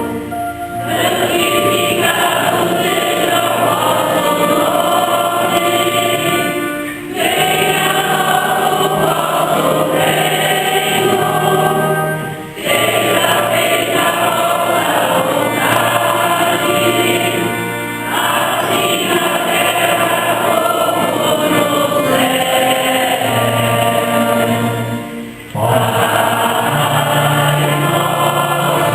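Church choir singing a hymn for Mass, in phrases with brief breaks between them.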